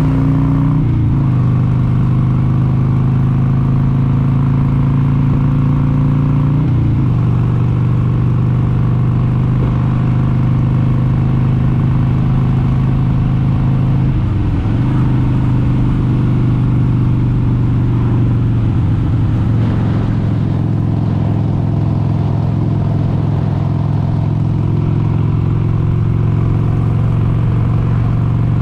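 1996 Harley-Davidson XLH883 Sportster's 883 cc Evolution V-twin running steadily at road speed. Its note briefly dips and climbs back about four times.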